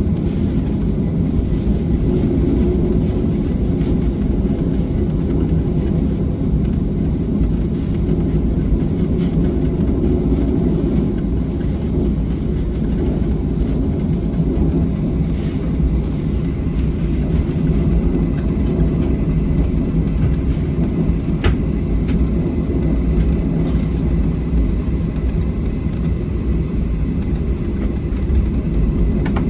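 Steady low rumble of a Boeing 737-700's jet engines and airflow, heard from inside the passenger cabin, with no change in pitch. A single faint click about 21 seconds in.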